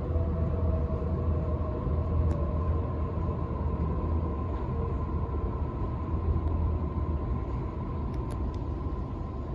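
Sydney Trains Waratah A-set electric train running, heard from inside the carriage: a steady rumble with a faint steady whine above it.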